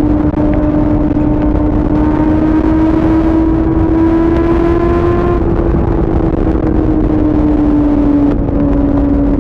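2004 Yamaha R6's 600 cc inline-four engine running at highway speed: its high, steady note climbs slowly for about five seconds as the rider holds the throttle open, then eases back down as he rolls off. Heavy wind rumble on the microphone runs underneath.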